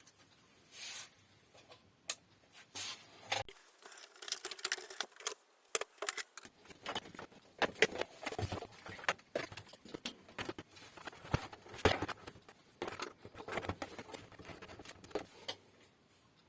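Irregular small clicks, taps and rustles of hands handling hardware, busiest from a few seconds in until near the end.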